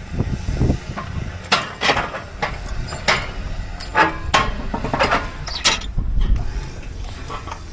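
A string of sharp metal clanks and knocks, about eight in five seconds, some ringing briefly, over a low rumble.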